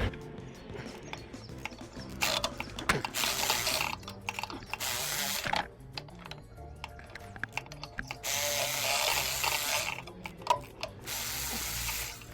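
A 3/8-inch ratchet wrench clicking rapidly in four bursts, each one to two seconds long, as 14 mm intake manifold bolts are run out.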